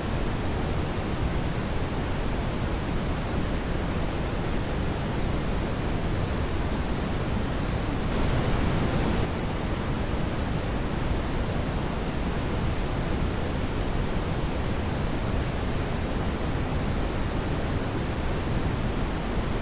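Steady brown noise: a deep, even rushing hiss with most of its weight low down. About eight seconds in, a brighter hiss rises over it for about a second.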